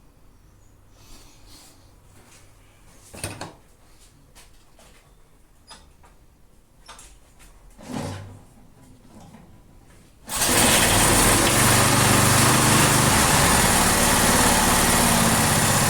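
A few faint clicks and knocks, then about ten seconds in a Briggs & Stratton single-cylinder lawn mower engine starts on the first pull of the recoil cord and runs steadily. This is a start after refuelling: its carburetor sits on the fuel tank and had not been getting fuel because the tank was too low.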